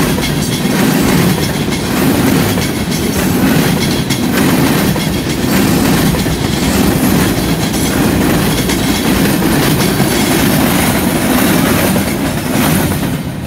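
Loaded freight cars of a passing freight train rolling by close up: a loud, steady rumble of steel wheels on rail with repeated clatter as the wheel sets pass.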